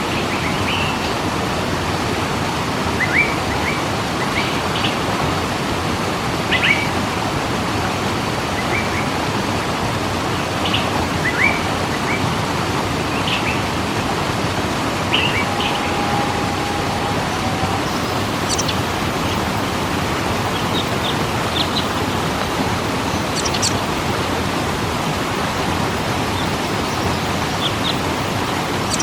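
Steady rush of a waterfall, with small birds chirping now and then over it.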